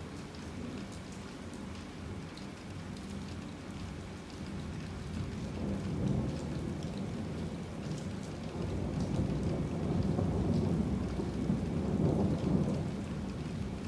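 Steady heavy rain with a rolling rumble of thunder that swells about five seconds in, stays loud for several seconds and eases near the end.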